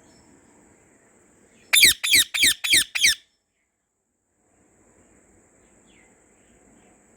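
Budgerigar giving a quick run of five loud chirps, each a sharp falling note, about two seconds in.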